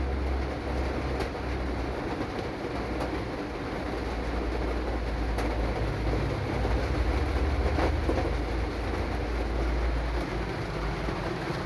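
Steady low rumble of a truck on the road with an even hiss over it, and a few faint ticks along the way.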